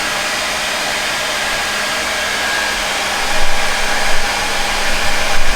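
A handheld blow dryer runs steadily, blowing air into a soft bonnet hood attachment as a constant rushing with a faint motor hum. About three and a half seconds in, a louder low rumble joins the rush.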